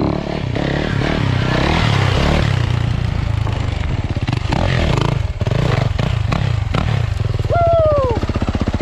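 Dirt bike engine running hard, its revs stepping up and down through throttle and gear changes, with a few sharp clacks midway. Near the end comes a short high call that rises and then falls.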